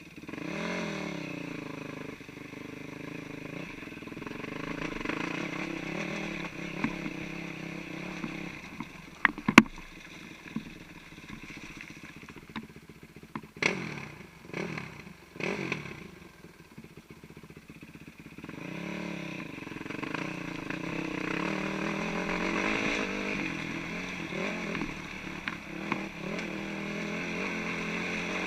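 Four-stroke 450 cc single-cylinder dirt bike engine running at low to moderate revs, its pitch rising and falling with the throttle. A single sharp knock comes about nine seconds in, a cluster of short noisy bursts follows a few seconds later, and the engine drops low for a couple of seconds before picking up again.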